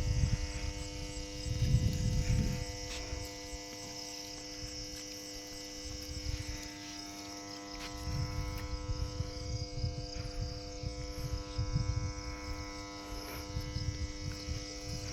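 Insects, likely crickets, chirring steadily at a high pitch over a steady hum of several tones, with wind rumbling on the microphone in gusts, strongest about two seconds in and again from about eight seconds on.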